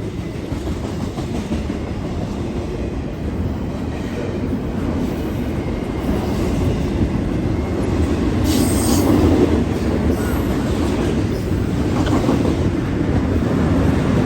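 Norfolk Southern freight train rolling past, with a steady rumble and wheels clacking over the rail joints. A brief high-pitched burst, likely a wheel squeal, comes about eight and a half seconds in.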